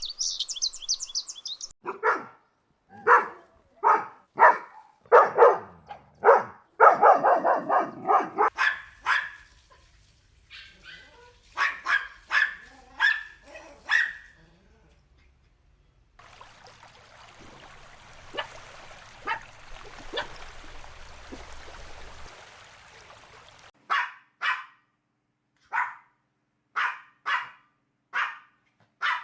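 Dogs barking in bouts of short, sharp barks, with a pause near the middle. A steady hiss underlies the middle stretch, where only a few barks come through.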